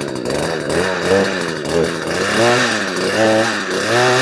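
Husqvarna 240 two-stroke chainsaw engine running, its throttle blipped again and again so the revs climb and drop back in quick arcs about once a second. It is a freshly fitted replacement engine, just started and running with the choke in.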